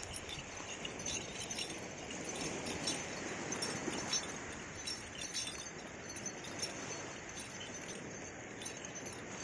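Small metal bells on a horse's harness jingling irregularly as the horse moves, over a steady rush of background noise.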